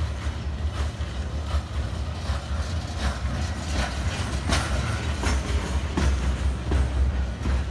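Freight train of steel-coil flatcars rolling past, a steady low rumble with the wheels clicking over rail joints about every three-quarters of a second.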